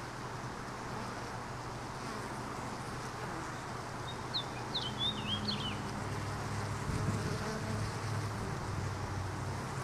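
Honey bees buzzing around an open hive during an inspection, a steady wavering hum that grows a little stronger in the second half. A bird chirps briefly about halfway through.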